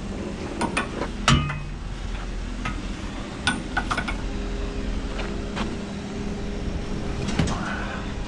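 Scrap metal clanking as pieces are knocked and dropped: a scatter of sharp metallic knocks, the loudest about a second in with a brief ring, over a steady low hum.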